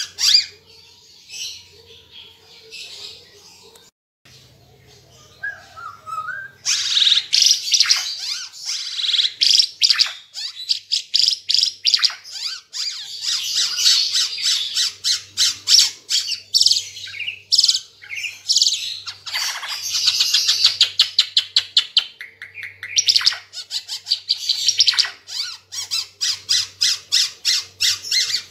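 Ara Timor songbird singing: a fast, loud run of high repeated chirps and trills, after a sparser, quieter start. The song pauses briefly about three-quarters of the way through, then carries on.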